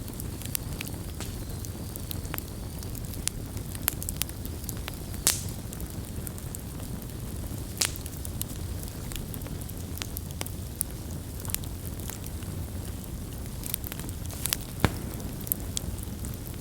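Wood campfire burning with a low steady rumble of flames and irregular crackles and pops, a few sharper snaps standing out.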